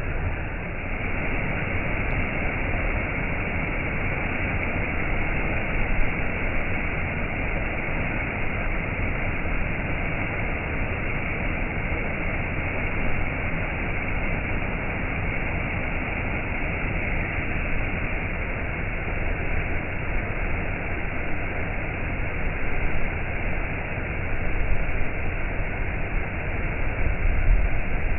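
Waterfall rushing: a steady, unbroken roar of falling water with a deep low rumble, swelling slightly now and then.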